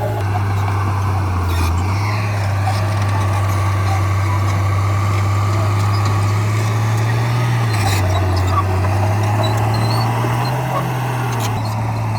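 Heavy diesel earthmoving engine running steadily under work, its low note rising and falling slightly a few times as the load changes.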